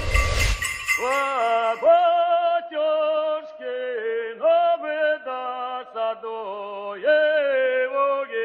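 A short burst of noise in the first second, then a single voice singing an unaccompanied, drawn-out melody in short phrases, each note scooping up slightly at its start.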